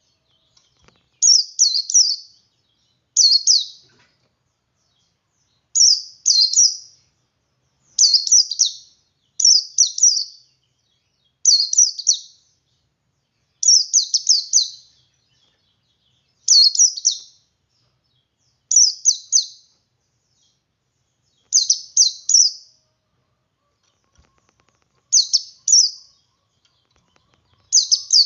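Male white-eye (pleci) singing in the 'ngalas' style: short, high, rapid chirping phrases, about a dozen of them, each under a second long with a pause of a second or two between.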